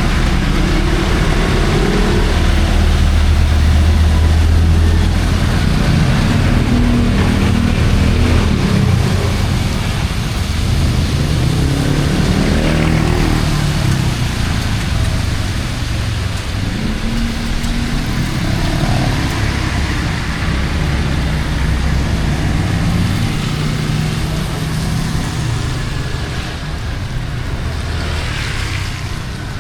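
Road traffic passing close by: vehicle engines rising and falling in pitch as they go by and pull away, over a steady hiss.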